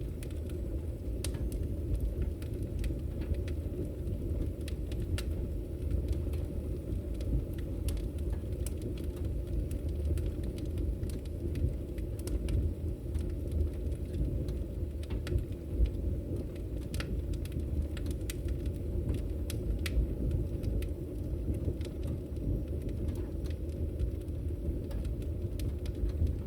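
Wood fire burning in a fireplace: a steady low rumble of flames with frequent sharp crackles and pops from the logs, scattered irregularly.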